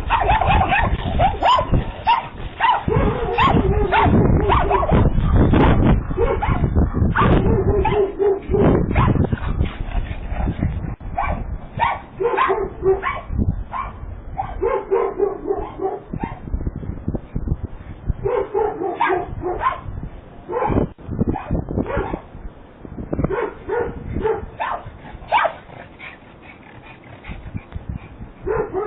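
A dog barking and whining in repeated bursts, dense and loud at first, then sparser, picked up by a home security camera's narrow-band microphone.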